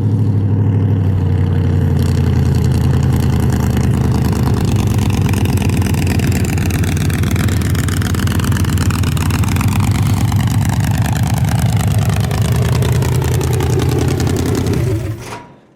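Race truck engine held at high, steady revs, loud, as during a long burnout; it stops abruptly near the end.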